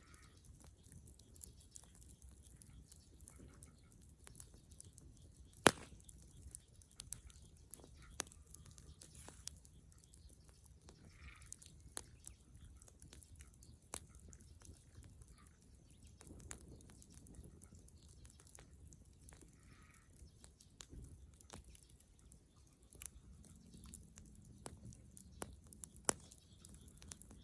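Bonfire of dead wood crackling, with scattered sharp pops and one loud pop about six seconds in.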